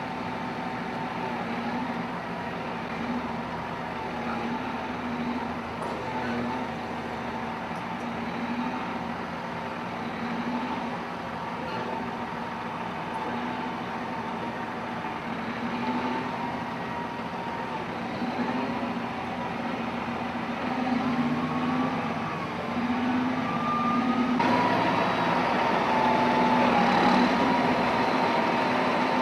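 Heavy machinery engine running steadily, with a wavering whine above the engine note. The sound changes abruptly and gets louder about 24 seconds in.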